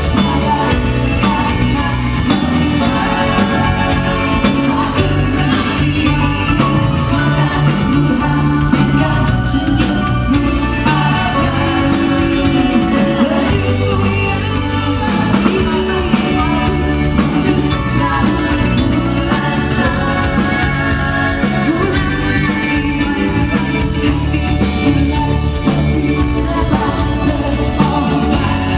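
Live band playing an upbeat pop-rock song with a singer, drums, bass and guitar, heard loud and continuous.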